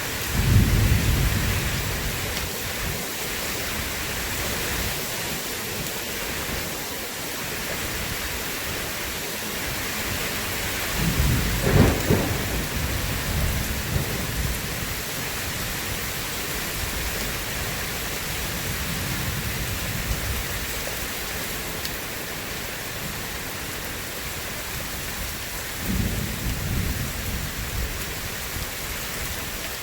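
Steady heavy rain with thunder rumbling three times: right at the start, about eleven seconds in (the loudest), and near the end.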